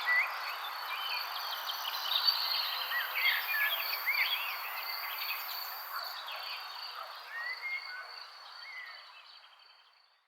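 Wild birds chirping with short rising and falling whistled notes over a steady high insect drone and a soft outdoor hiss. The whole fades out near the end.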